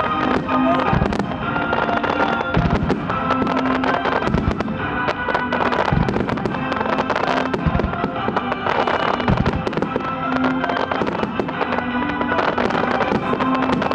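Fireworks going off one after another, with deep booms every second or two and many sharp cracks between them, over music that plays throughout.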